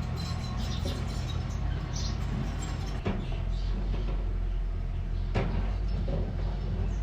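Engine of a small earthmoving machine running steadily, with a couple of sharp knocks partway through and birds chirping.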